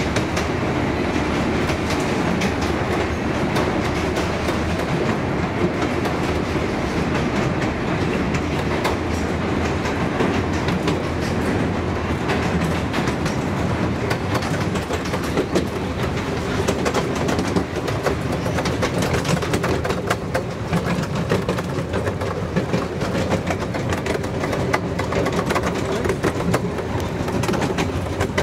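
Miniature railway train running, heard from aboard a carriage: a steady rumble of wheels on the track with frequent clicks over the rail joints, coming more often in the second half.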